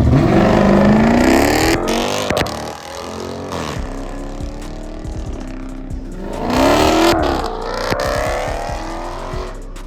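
A car launching hard: its engine revs up loudly for about two seconds, then eases off. A second rev climbs and falls away about six to seven seconds in.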